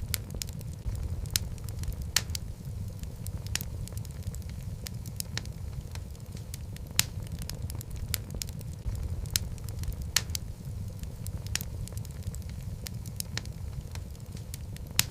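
Wood logs burning in a fireplace: a steady low rumble of flame with frequent, irregular sharp crackles and pops, a few of them louder.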